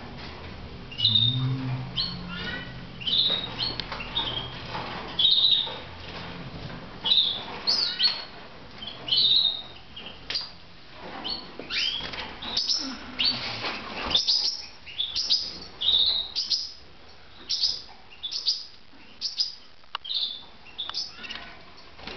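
Red mosaic canaries chirping: short, sharp call notes repeated about once a second, with a brief trill near the start.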